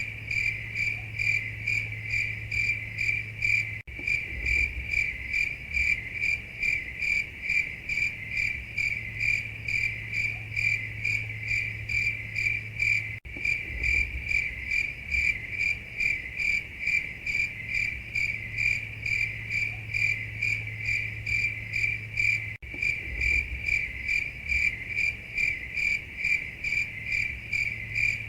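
Cricket chirping sound effect: an even, steady run of short high chirps, about three a second, over a faint low hum. It plays as a loop with a brief dropout every nine seconds or so.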